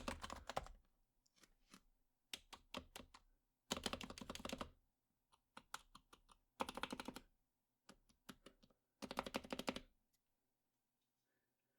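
Typing on a stock HHKB Professional Hybrid Type-S keyboard with silent 45 g Topre electrostatic capacitive rubber-dome switches: quick runs of keystrokes in short bursts with brief pauses between, falling quiet for the last couple of seconds.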